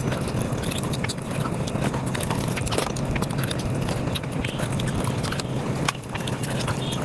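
Sped-up eating sounds at five times normal speed: chewing and mouth smacking turned into a dense, rapid run of wet clicks.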